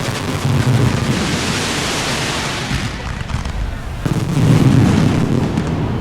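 Aerial fireworks shells bursting in low booms over a steady hiss; the booms get louder about four seconds in.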